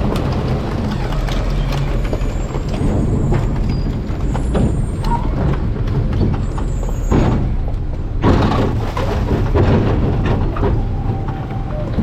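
Garbage truck running with a steady low engine rumble, scattered knocks and clatter, and two short surges of hiss about seven and eight seconds in.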